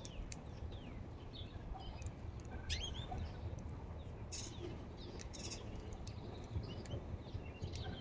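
Songbirds chirping and calling: scattered short chirps and a few quick rising and falling whistles, with some sharp clicks, over a low steady rumble.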